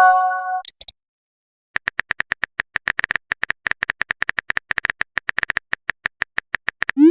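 Text-chat typing sound effect: a fast run of short keyboard clicks, about nine a second, after a brief multi-tone message chime at the start. Near the end a quick rising swoosh, like a message being sent.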